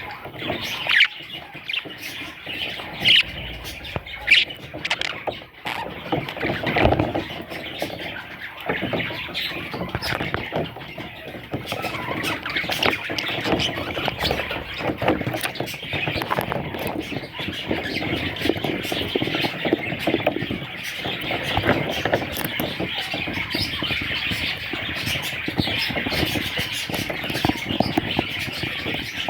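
Budgerigars chattering and calling continuously, with a few louder sharp squawks in the first five seconds.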